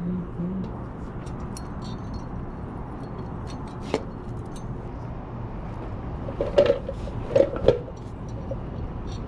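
Metal engine parts and tools clinking as they are handled on the bench: one sharp tap about four seconds in, then a handful of ringing metallic clinks a little later, over a steady low background hum.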